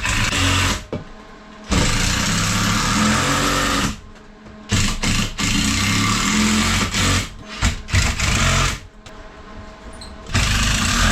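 Power drill running in repeated runs of one to two seconds with short pauses, driving screws into a wooden workbench frame.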